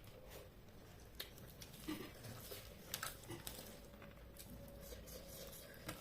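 Faint eating sounds: chewing with soft, wet clicks and squishes of food in the mouth, a handful of times.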